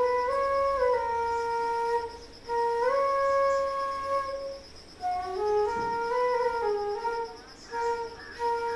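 A flute playing a slow melody of held notes that step up and down in pitch, in phrases separated by short breaks.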